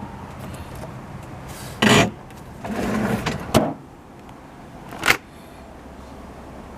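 Doors and pull-out drawers of a Mitsubishi six-door refrigerator being opened and shut: a short sliding rush about two seconds in, a rougher sliding stretch, then sharp shutting knocks in the middle and about five seconds in, over a steady low hum.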